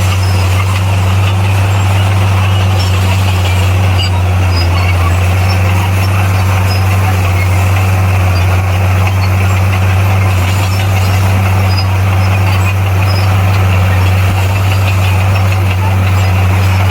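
Komatsu D58P bulldozer's diesel engine running steadily under work, a loud even low drone.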